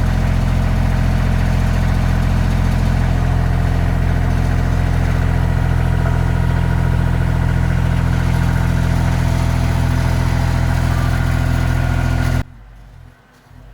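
Kioti CK2610 compact tractor's diesel engine running steadily while the loader lifts a beam on its pallet forks. The sound cuts off suddenly near the end.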